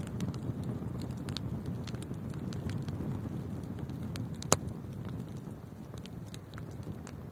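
Wood fire burning in a fireplace: a steady low rumble of flames with scattered small crackles and one sharp loud pop about four and a half seconds in.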